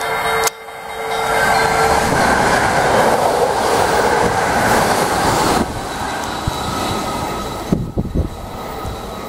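681 series 'Snow Rabbit' electric express train passing at high speed: a loud rush of wheel and air noise that drops to a lower, steadier train noise a little past halfway. A steady tone fades out in the first couple of seconds, and there are a few low thumps near the end.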